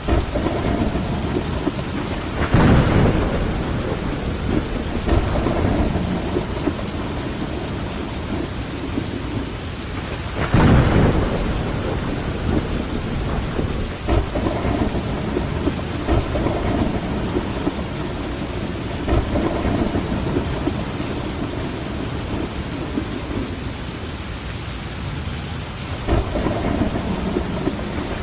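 Steady heavy rain pattering on window glass, with deep thunder rumbles swelling up about 2.5 s in and again about 10.5 s in.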